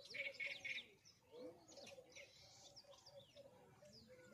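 Small birds chirping faintly, with a quick run of chirps in the first second and more chirps around the middle.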